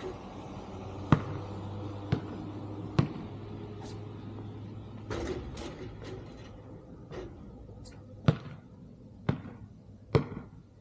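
A basketball bouncing on a hard court: three sharp bounces about a second apart, then after a pause three more near the end. A steady low hum runs under the first half and stops about halfway through.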